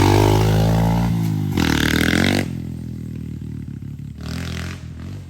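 Dirt bike engine revving hard as it launches off the start line, its pitch climbing and dropping through gear changes. After about two and a half seconds it fades sharply as the bike rides off, with one more brief rev near the end.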